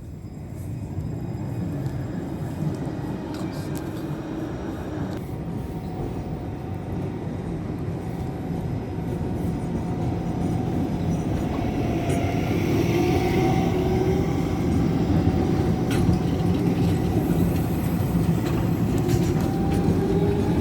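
Tram running with a steady rumble and a faint motor whine that rises slightly in pitch from about halfway, growing louder as it comes closer, with a few sharp clicks near the end.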